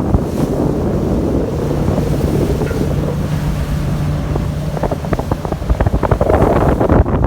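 Wind buffeting the microphone in heavy gusts, with a steady low hum through the middle seconds and harder crackling buffets near the end.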